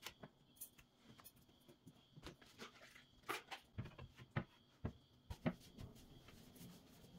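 Scattered light clicks, taps and knocks of household items being handled and set down, a few louder ones in the middle, over faint room hum.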